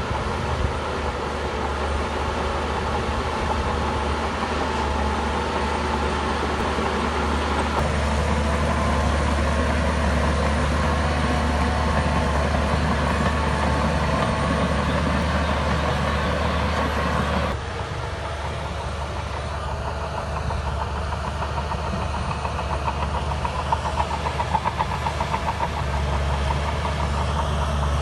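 Large crawler bulldozer's diesel engine running steadily under load, the low rumble dropping suddenly about two-thirds of the way through. A fast metallic rattling, typical of the steel tracks, rises near the end.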